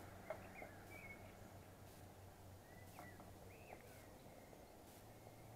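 Near silence: a few faint, short bird chirps over a faint steady low hum.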